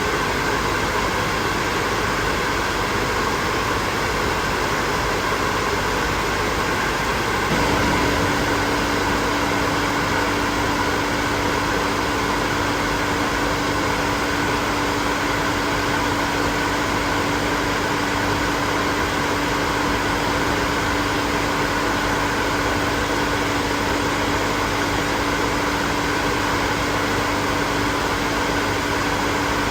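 Hair dryer running steadily, a continuous blowing whir. About seven and a half seconds in, the sound shifts slightly and a steady low hum comes in and stays.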